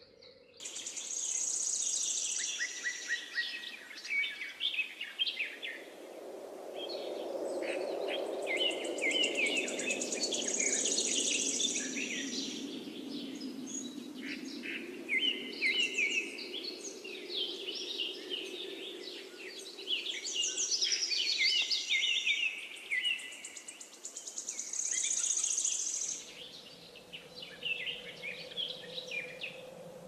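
Small birds chirping and singing in quick, high trills that keep overlapping one another. A low drone swells and fades between about a quarter and half of the way through, and a faint steady hum comes in near the end.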